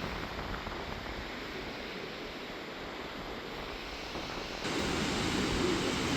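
Steady rush of sea surf and wind, with wind buffeting the microphone; it gets louder about four and a half seconds in.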